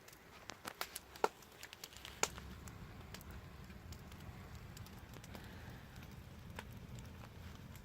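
Wood fire crackling: sharp pops and snaps come thick in the first couple of seconds, then more sparsely, over a low steady rumble.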